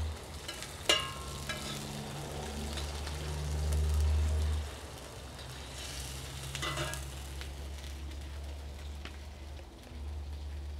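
Chile-sauce-dipped tortillas frying in lard on a metal comal, a steady sizzle. A sharp metal click about a second in and a short scraping near the middle come from a fork and spatula turning the tortillas on the comal. A low hum comes and goes underneath.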